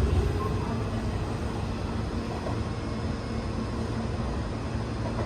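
Hanshin electric train running out of the station, a steady low rumble of motors and wheels on rail that eases off slightly.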